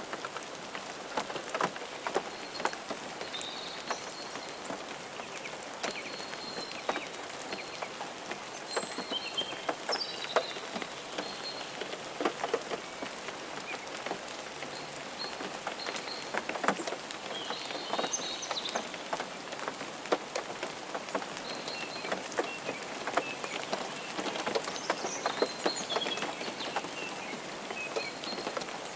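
Rain pattering on a car's windshield and roof: a steady hiss with irregular sharp taps of drops hitting, and faint short high squeaks now and then.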